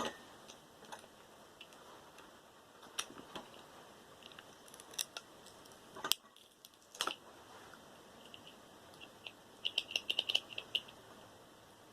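Scattered light clicks and taps of small plastic and metal parts from a computer cooling fan being handled and pulled apart, with a quick run of small clicks about ten seconds in.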